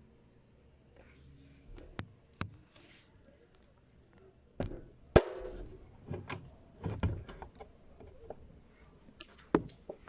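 Irregular sharp clicks and knocks with soft rustling between them, the loudest knock about five seconds in.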